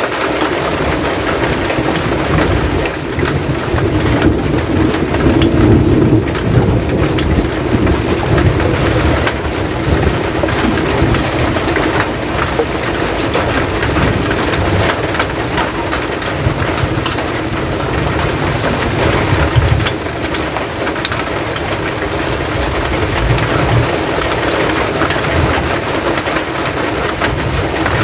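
Steady rain falling on a metal roof edge just overhead and on wet ground, with many small drop ticks and an uneven low rumble underneath.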